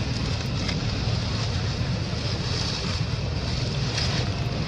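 Steady rushing noise with a low rumble and hiss, like wind buffeting the microphone, with a few faint clicks.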